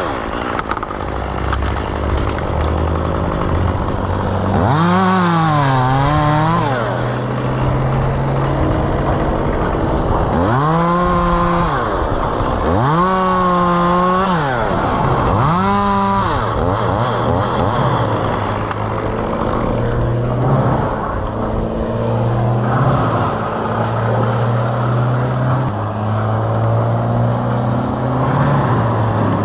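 Two-stroke chainsaw idling, revved up to high speed and back down four times in the first half, the pitch wavering during each rev, then settling back to a steady idle.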